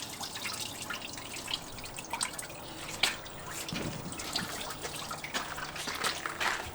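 Engine coolant dripping from a disconnected cooling hose into a bucket, in irregular drips.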